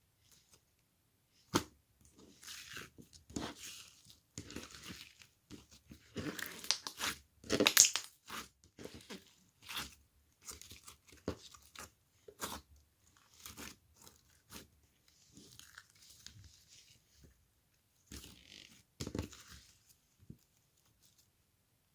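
Irregular crunching and crackling noises, some short and sharp, some drawn out like tearing, close to the microphone; the loudest come about eight seconds in.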